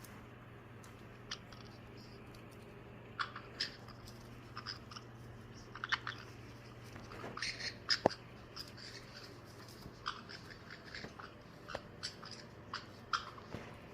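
Two caiques play-fighting: scattered small clicks and scuffles of beaks and feet with short high chirps, busiest in the middle, over a faint steady low hum.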